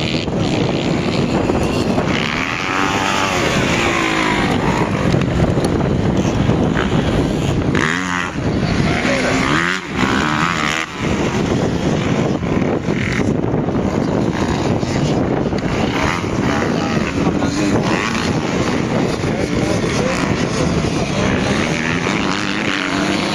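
Motocross bikes riding the track, their engines revving up and down through the gears, with brief drops in level around the middle.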